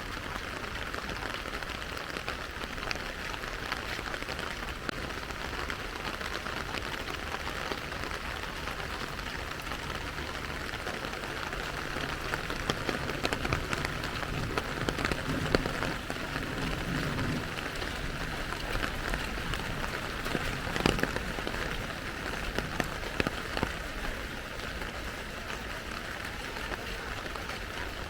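Steady rain falling and splashing, with scattered sharp drop ticks. A low rumble rises and fades in the middle.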